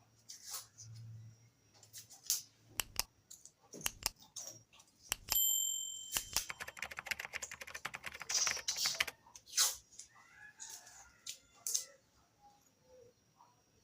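Small hard objects being handled: scattered clicks and knocks, one ringing metallic clink about five seconds in, then a quick run of rapid clicking and rattling for a few seconds.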